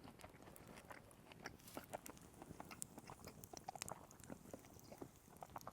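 A man chewing a mouthful of campfire-cooked steak: faint, irregular small clicks of the mouth.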